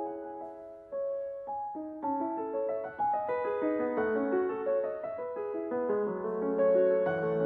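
Background piano music: slow single notes at first, then fuller chords building from about three seconds in.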